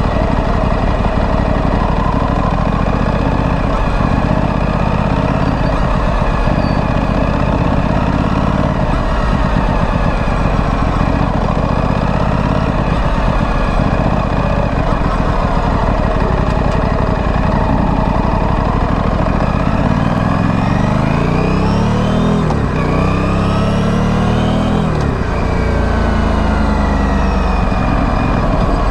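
Aprilia Tuono 457's parallel-twin engine running through its stock exhaust while being ridden. About twenty seconds in it accelerates hard, the pitch climbing through two gears with a short dip at the shift, then falling away as the throttle is closed.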